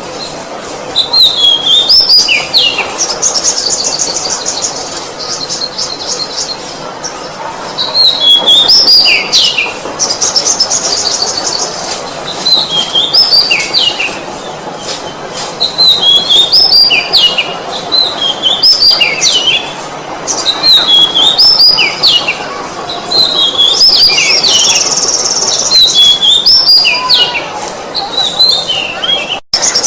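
Oriental magpie-robin singing: loud phrases of sharp, falling whistled notes mixed with fast buzzy trills, repeated every few seconds over a steady background hiss.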